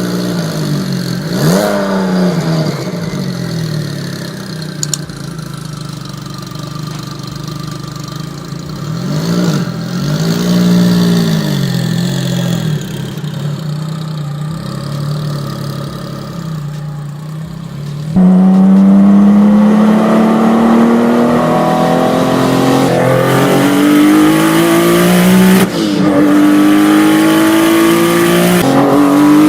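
A high-performance car engine revving, its pitch rising and falling a few times. It then gets much louder and climbs steadily under hard acceleration, with a brief drop in pitch at a gear change near the end.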